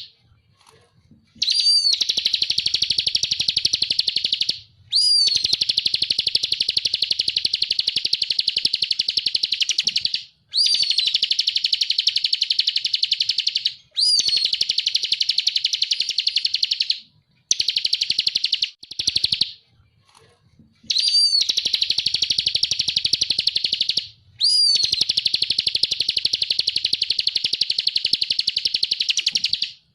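Ciblek (prinia) singing its rapid, buzzing trilled "ngebren" song: about eight long phrases of fast-repeated high notes, each opening with a sharp downslurred note, broken by brief pauses.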